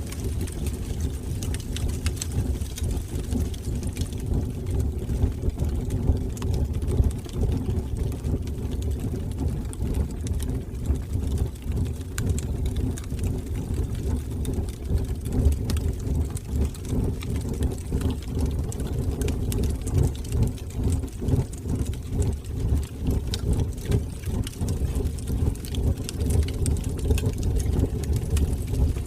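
Fire burning in a fireplace: a steady low rumble of flames with many small crackles and pops scattered throughout.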